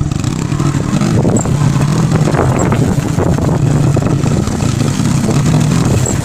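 Motorcycle engine running steadily and loudly.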